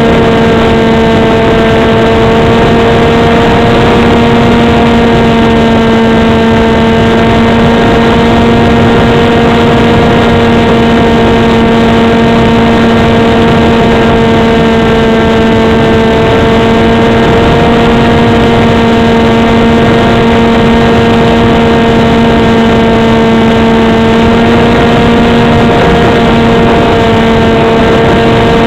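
RC foam flying wing's motor and propeller droning at a steady, near-constant pitch, with loud rushing noise from air flowing over the wing-mounted camera's microphone.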